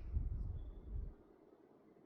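A large sleeping dog's breath: a low, rough exhale through the nose lasting about a second, then a pause between snores.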